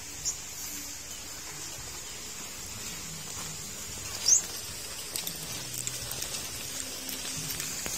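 Two short, high, rising chirps from a small bird: a faint one just after the start and a louder one about four seconds in, over a steady high hiss of outdoor ambience.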